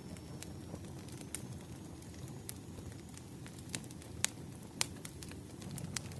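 Burning firewood crackling: irregular sharp pops and snaps over a low, steady rumble of the flames, with two louder pops about two-thirds of the way through.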